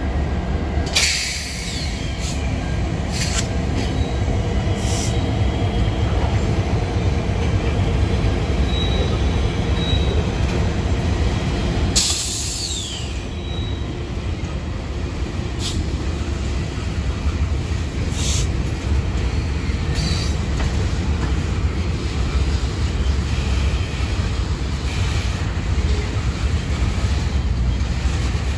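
Freight train rolling past with a steady low rumble of wheels on rails. There are sharp metallic clacks about a second in and again near the middle, and brief faint wheel squeals.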